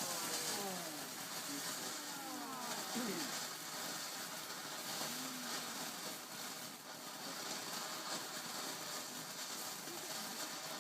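A firework burning with a steady hiss as it sprays sparks.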